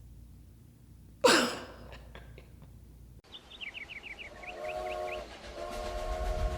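A single loud swoosh, falling in pitch, about a second in. After an abrupt cut comes a quick run of short falling chirps, then held musical notes that swell toward the end.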